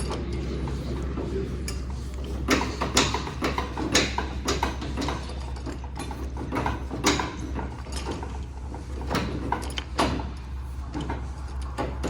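Engine idling with a steady low hum, under irregular sharp metallic clanks and clicks from loading work.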